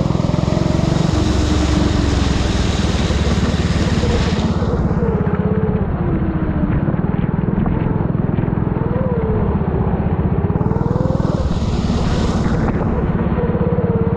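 A four-stroke Honda hire kart engine running hard, its revs repeatedly rising and falling as the kart accelerates and lifts off. Heard from a helmet-mounted camera, with a rushing hiss that swells at the start and again near the end.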